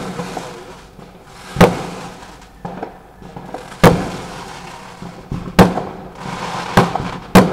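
Fireworks exploding overhead: five loud sharp bangs and a couple of softer pops at irregular intervals of one to two seconds, each dying away in a short fading tail.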